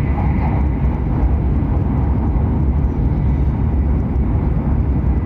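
Steady low rumble of a Hokuriku Shinkansen train running at speed, heard from inside the passenger car.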